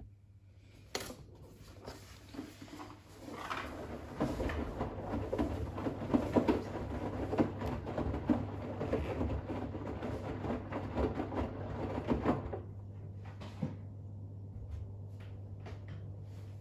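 Bosch WAX32GH1 front-loading washing machine tumbling wet towels in the final rinse: from about four seconds in the drum turns, with water sloshing and many small irregular thuds, then it stops a little after twelve seconds. A steady low hum continues underneath.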